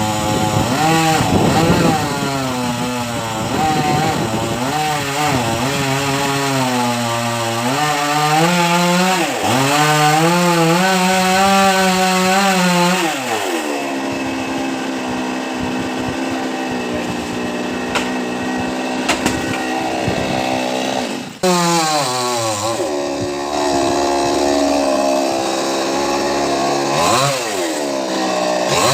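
Chainsaw cutting a coconut tree, its engine pitch repeatedly rising and falling with throttle and load. It runs lower and steadier for several seconds past the middle, dips for an instant about two-thirds through, then revs up and down again.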